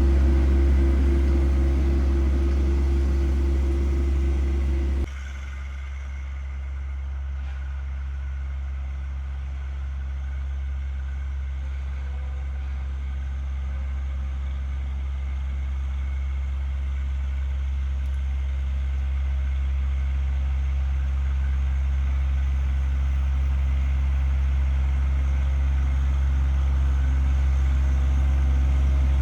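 John Deere 1025R compact tractor's three-cylinder diesel engine running steadily. About five seconds in, a higher steady whine cuts off and the sound drops suddenly, then the engine runs on, slowly growing louder.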